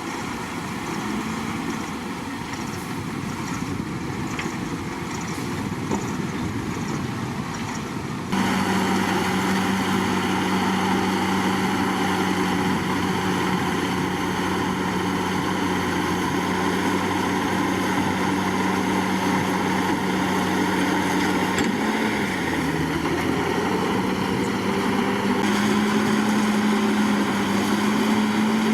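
Heavy diesel engine of a bulldozer running with a steady drone. About eight seconds in, the sound jumps abruptly louder, and a little over twenty seconds in the engine note dips briefly and climbs back.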